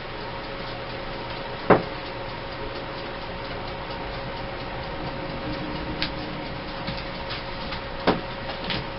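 Steady low hum with a faint constant tone, and a few sharp clicks and light ticks from handling craft papers and cut-outs, the two loudest clicks about two seconds in and near the end.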